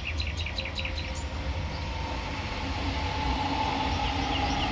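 Berlin S-Bahn electric train running past, a steady rolling noise with a whining tone that grows louder from about two seconds in. Birds chirp briefly in the first second.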